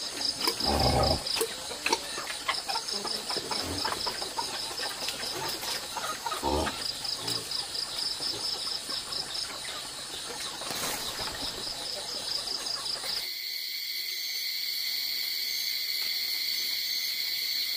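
Insects chirping in a steady, pulsing high trill, with a few short low knocks or voice sounds in the first seven seconds. About 13 seconds in, the lower sounds drop away abruptly and only a steadier high insect buzz remains.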